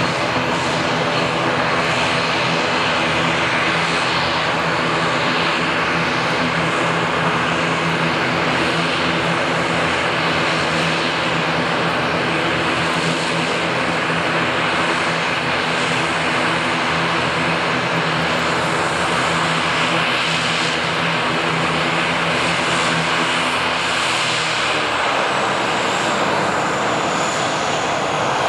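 ATR 72-212A's Pratt & Whitney PW127 turboprop engines droning steadily, heard inside the cabin. About 24 seconds in, the propeller tones drop in pitch as power comes back, and a faint high whine glides down near the end.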